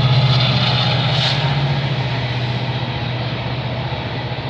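A CN diesel freight locomotive runs past close by at speed, its engine giving a steady low throbbing hum over the rushing noise of wheels on rail. It is loudest at the start and slowly fades as it moves away.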